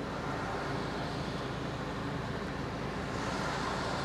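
Steady outdoor background rumble and hiss, with no single clear source, growing slightly brighter about three seconds in.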